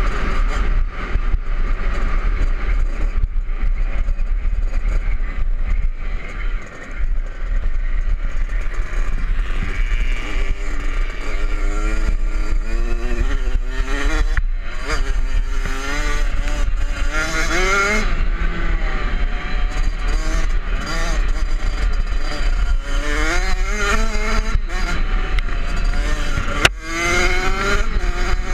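Kawasaki KX65's small two-stroke engine, heard from a camera mounted on the bike as it is ridden off-road, its pitch rising and falling with the throttle. It eases off briefly twice, about a quarter of the way in and near the end.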